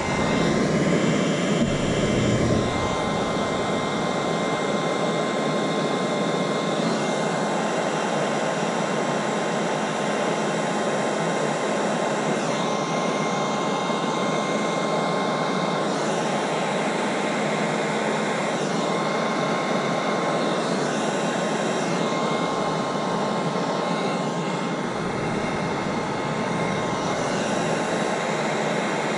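A hand-held heating tool running with a steady rushing hiss and a faint steady whine, heating a fuel-pump wire splice.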